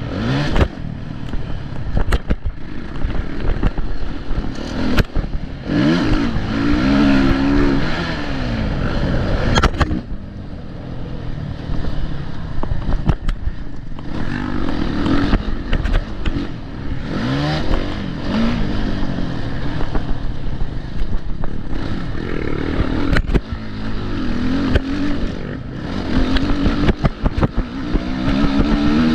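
Motocross dirt bike engines racing, their pitch rising and falling again and again as the bikes accelerate and shift, with scattered sharp knocks and rattles.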